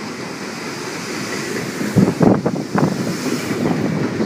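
Wind buffeting the microphone, a rushing noise that gusts harder about two seconds in.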